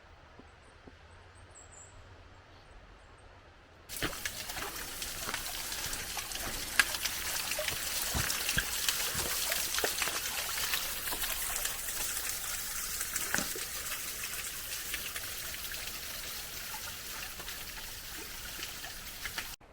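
Small cascade of a mountain stream rushing and splashing over rocks, coming in suddenly about four seconds in after a quiet stretch.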